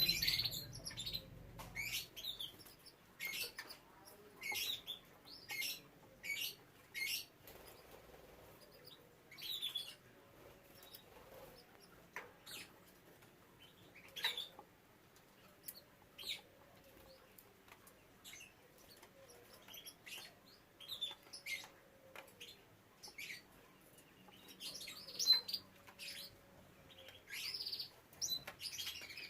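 Canaries giving short, scattered high chirps and calls, roughly one a second at uneven intervals, rather than a continuous song.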